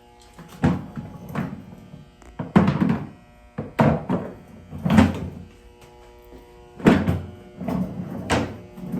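A string of irregular knocks and thumps, about nine in all, as hard objects are handled and set down, with a faint steady hum underneath.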